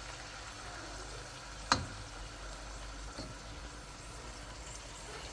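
Food frying in a pan with a steady, soft sizzle. A single sharp knock comes about two seconds in.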